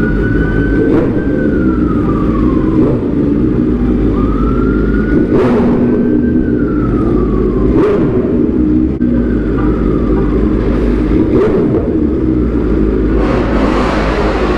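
Police siren wailing, its pitch rising and then sliding slowly down, repeating about every five seconds, over a motorcycle engine running steadily close by.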